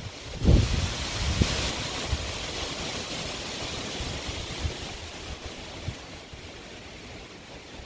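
Strong wind blowing in gusts, with low rumbling buffeting on the microphone; the strongest gust comes about half a second in and the wind slowly eases toward the end.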